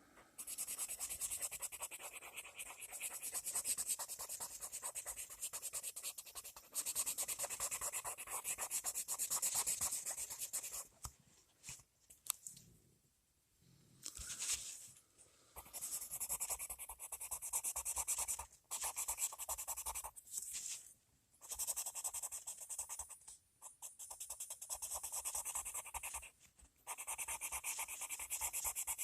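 Colored pencil scratching rapidly back and forth on paper while shading small areas, in spells of a few seconds with short pauses between, the longest near the middle.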